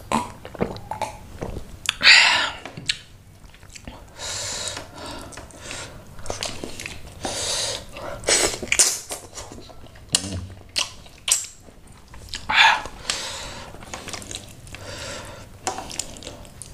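Close-up eating sounds: wet chewing and sucking of curried snapper head meat and rice eaten by hand, with irregular mouth clicks and short breathy bursts, one louder about two seconds in.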